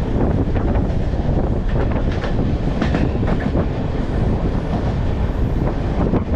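Passenger train running, heard from on board: a steady rumble of the coach with the wheels clicking over rail joints, a cluster of clicks a couple of seconds in.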